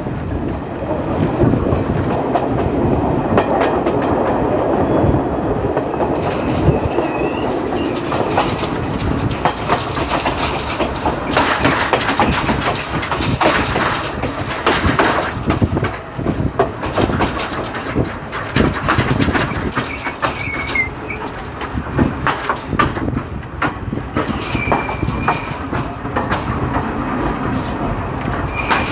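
Local passenger train running along the track, wheels clattering over rail joints in a steady clickety-clack, with a few brief high squeals in the second half.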